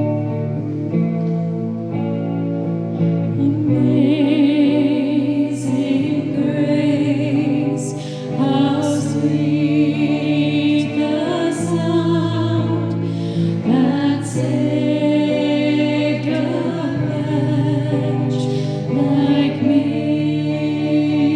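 Worship song: voices singing over held instrumental chords, the singing coming in about four seconds in after a short instrumental lead-in.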